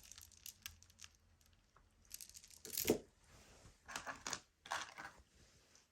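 Costume jewelry being handled: brief rustles and crinkles with light clicks, in a few short bursts, the strongest about three seconds in.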